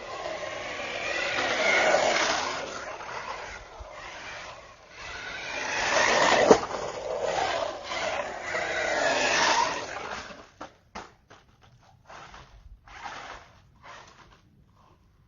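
Electric RC car with a brushless motor driving over rough ground, its whine rising and falling as the throttle changes. There is a sharp knock about six and a half seconds in. From about ten seconds on come only short scrapes and clicks.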